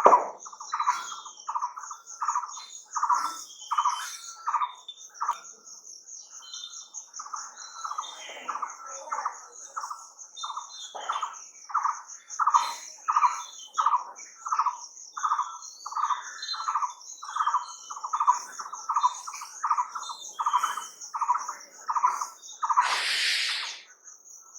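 A bird calling one short note over and over, a little under two a second, with a brief pause about six seconds in. Behind it runs a steady high insect buzz. Near the end comes a short rushing burst of noise about a second long.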